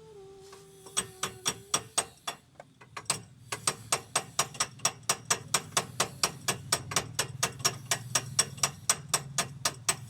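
Rapid, evenly spaced metallic taps, about four or five a second, starting about a second in, over a low steady hum. A steady tone sounds briefly at the start.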